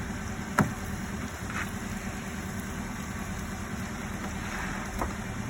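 Car running with a steady low hum, with a single sharp knock about half a second in and a fainter click near the end.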